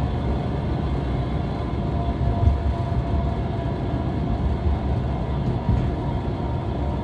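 Toyota HiAce van cabin filled with a tremendously noisy, steady low rumble with a faint steady whine over it while driving, which the owner suspects comes from a worn rear hub bearing.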